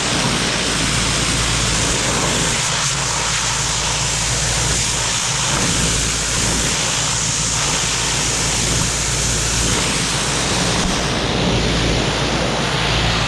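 Pressure washer running steadily, its water jet spraying hard against a tractor's sheet metal, with a steady low hum from the washer's motor and pump underneath.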